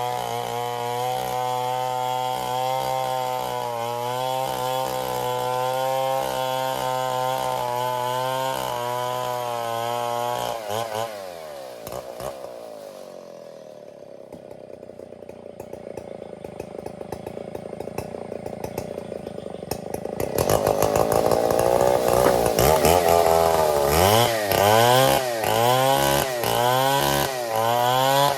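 Stihl 070 two-stroke chainsaw running steadily at high speed. About eleven seconds in, it slows to idle and runs quieter, then revs back up about twenty seconds in and keeps running with its pitch repeatedly rising and falling.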